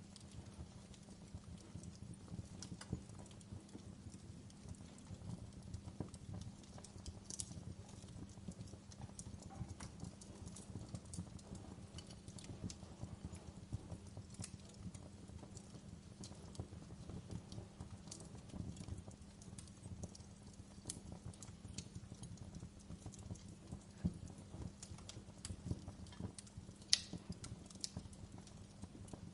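Wood fire crackling in a fireplace: a low steady rumble of burning with frequent small crackles and a few sharper pops, the loudest near the end.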